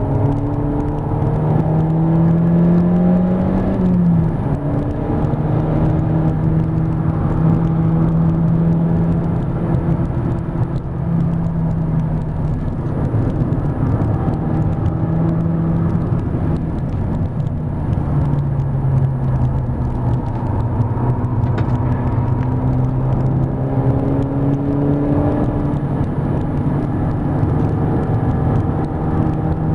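Mk5 Golf GTI's turbocharged 2.0-litre four-cylinder engine under load on track, heard inside the cabin over road and tyre noise. The engine note climbs, drops sharply about four seconds in at a gear change, then rises and falls with the throttle through the corners.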